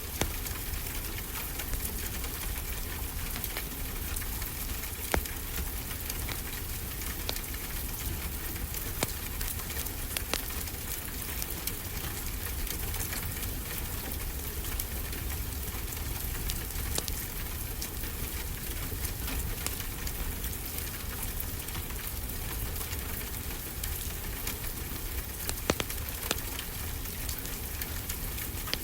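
Steady rain hiss mixed with a crackling wood fire: many small crackles throughout and a few louder pops.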